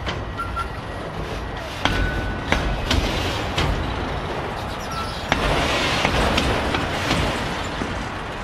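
Freight train's loaded autorack cars rolling past, a steady rumble broken by irregular sharp clicks of wheels over rail joints, with a few brief high squeals.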